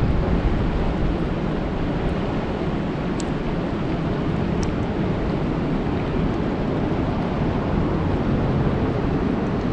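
Steady rain falling on a lake: an even, dense hiss with a low rumble underneath, and a couple of faint sharp ticks from single drops.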